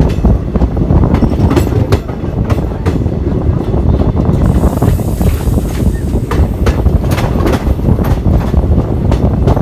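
Moving passenger train: a heavy, loud rumble of wheels on the track with irregular clicks and clatter, and a rushing hiss that comes in about halfway through.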